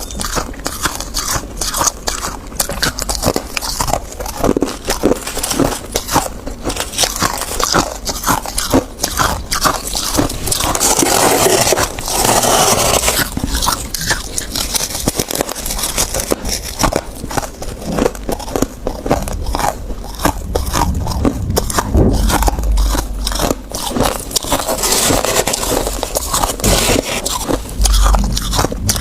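A person biting and chewing ice: a dense, continuous run of sharp crunches and cracks.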